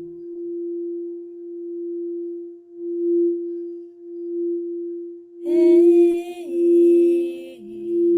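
A singing bowl ringing one steady pure tone that swells and eases again and again. About five seconds in, a voice tones a few held notes over it for about two seconds.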